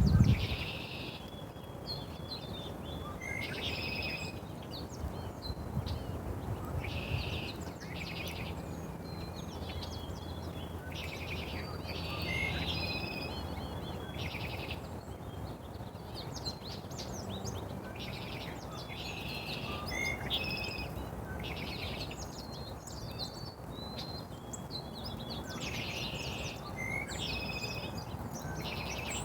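Songbirds singing short chirping phrases and trills that recur every couple of seconds, over a steady low background rumble.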